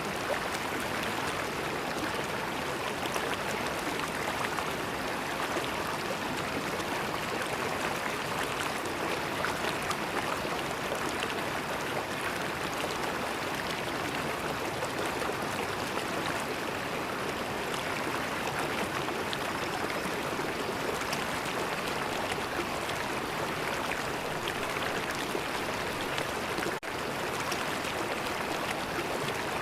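River water flowing steadily over rocks, a constant rushing and gurgling with no pauses. The level dips briefly for a moment near the end.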